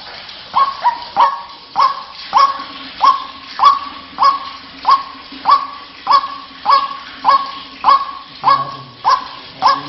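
White-breasted waterhen (ruak-ruak) call repeating: a short note that drops sharply in pitch and holds briefly, a little under two a second. It is the waterhen call used as a lure to draw the birds in.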